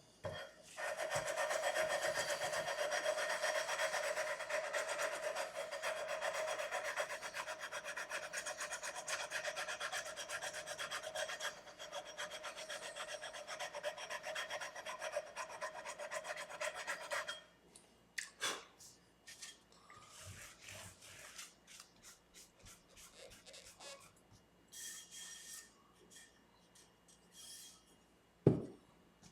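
Abrasive levelling bar rubbed back and forth along the guitar's frets, grinding them level; the scraping runs steadily for about sixteen seconds and then stops. Scattered light handling knocks follow, with one sharp knock near the end.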